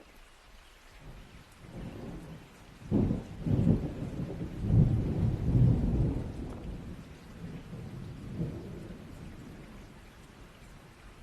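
Thunder rolling over steady rain: the rumble builds about a second and a half in, peaks with several loud crashes between three and six seconds, then dies away in a long low roll.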